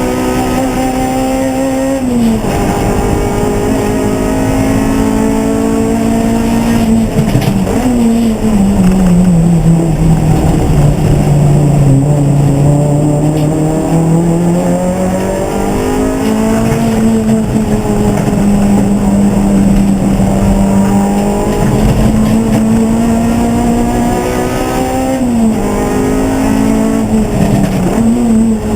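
Race car engine running under load around a circuit, its note rising and falling with speed and dropping in quick steps at gear changes.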